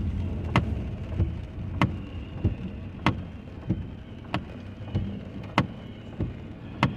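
Steady clicking inside a car, one click about every 0.6 s, alternating sharp and softer, over a low engine and road rumble.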